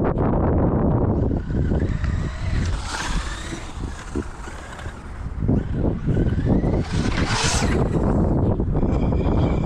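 Traxxas UDR RC trophy truck's brushless electric motor whining as it speeds past, its pitch rising twice, about three seconds in and again about seven seconds in, with a rushing swell at each pass. Wind rumbles on the microphone throughout.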